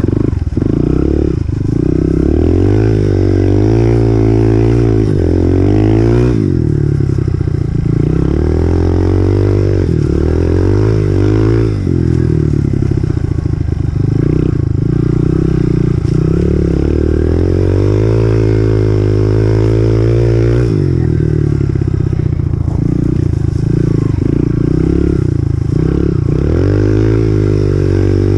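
2018 Honda CRF125F's small single-cylinder four-stroke engine under way, the pitch climbing as the throttle opens and dropping back several times, with brief dips in the engine note about a quarter, halfway and three quarters of the way through.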